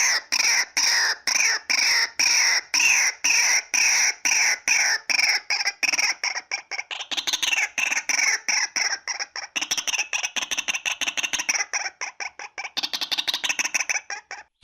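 Female white-breasted waterhen calling: a long series of loud repeated notes, about three a second, that speed up into a rapid chatter from about six seconds in.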